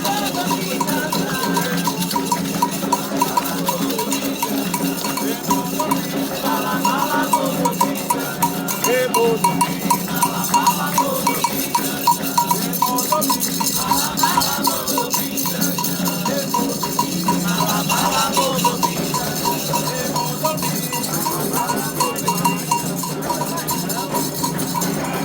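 Candomblé ritual music: a metal bell (agogô) struck in a steady repeating pattern, with rattles and voices singing.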